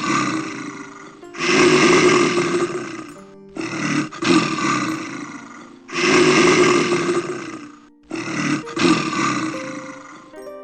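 A big cat, most likely a lion, roaring repeatedly: about five long, rough roars of roughly two seconds each, with short pauses between, over soft background music.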